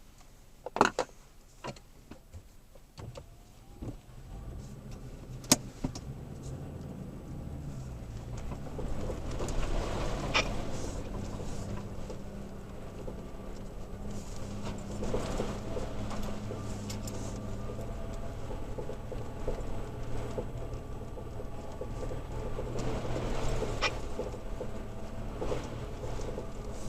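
Third-generation Toyota Tacoma heard from inside the cab, crawling along a rough trail with its engine running low and steady. Scattered sharp clicks come in the first few seconds. The engine hum picks up about four seconds in, with occasional knocks and rattles from the truck over the terrain.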